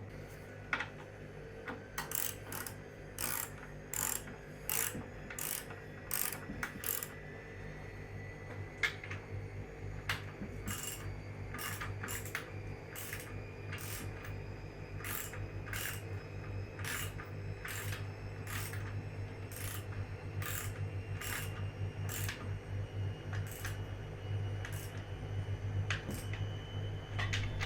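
Hand tools working on metal: a run of sharp metallic clicks and taps, about two a second for the first half and fainter and sparser later, over a steady low hum.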